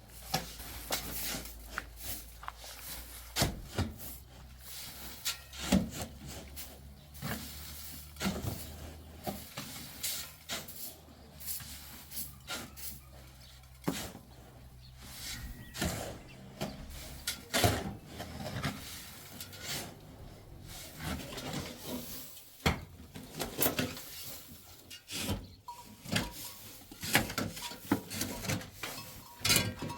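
Irregular scraping and rubbing with frequent sharp knocks.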